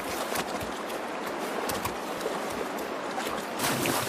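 Shallow stream water rushing, with irregular splashes as a black bear cub lunges at salmon; the splashing grows louder about three and a half seconds in.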